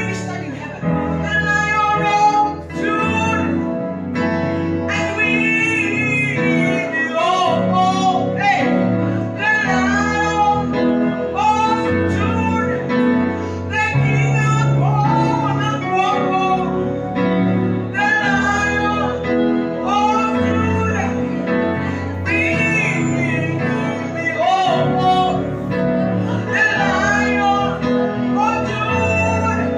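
Gospel worship song: a solo voice sings a melodic line over instrumental backing with steady bass notes.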